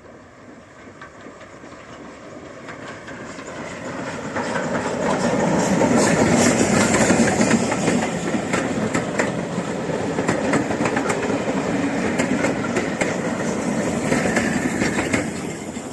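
A steam-hauled train passing close by, its wheels clicking over the rail joints. It builds up over the first six seconds, stays loud, and fades near the end.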